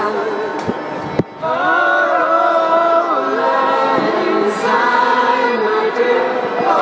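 A choir singing long held chords in several voices, with a brief break a little over a second in.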